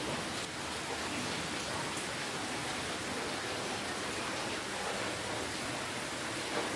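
Steady rainfall: an even hiss of rain with the patter of separate drops.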